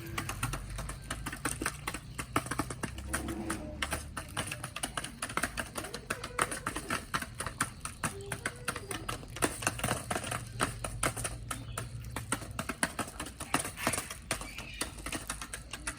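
Chickens pecking at food: rapid, irregular clicking taps of beaks striking feed and the ground.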